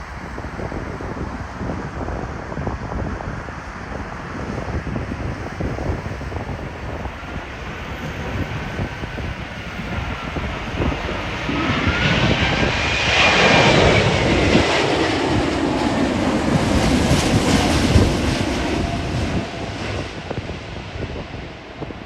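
Airliner on landing approach passing close by: its jet engines swell from about halfway through, with a whine that rises and then falls in pitch as it goes past, then fade. Gusty wind buffets the microphone throughout.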